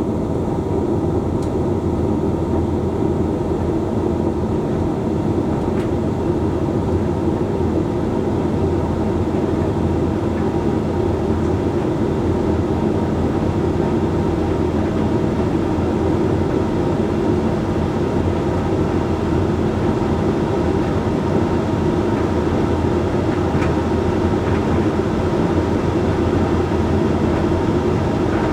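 Hoover Link X Care HLX C10DRGR condenser tumble dryer running mid-cycle: a steady, even hum of the motor, fan and turning drum.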